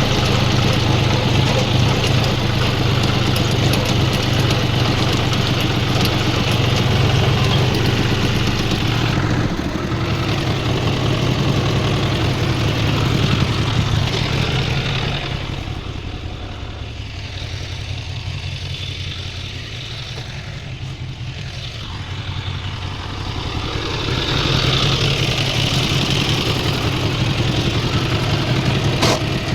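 Tractor diesel engine running steadily with a low hum. It grows quieter for several seconds past the middle, then louder again.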